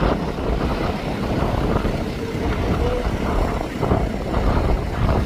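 Wind buffeting the microphone: a steady low rumble of noise with irregular gusts.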